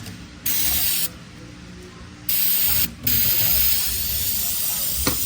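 Pressurised spray hissing in three bursts, two short ones and then a long steady one, used to clean a transmission part. There is a sharp click near the end.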